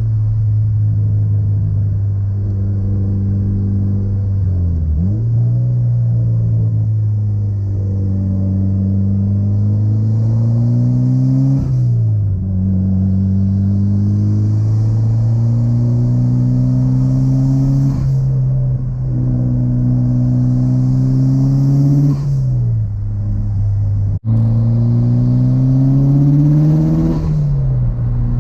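Mitsubishi Lancer Evolution's turbocharged four-cylinder engine pulling through the gears under acceleration. The pitch climbs slowly for several seconds, then drops back sharply at each gear change, about five times, with a momentary cut-out in the sound near the end.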